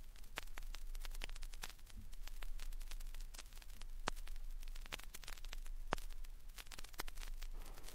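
Vinyl record surface noise in the silent groove between tracks: scattered crackles and pops over faint hiss and a steady low hum.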